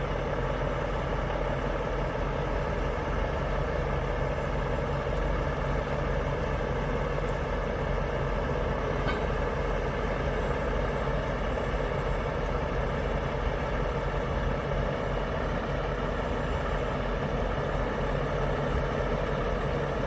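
Vehicle engine idling steadily: an even, unchanging drone throughout.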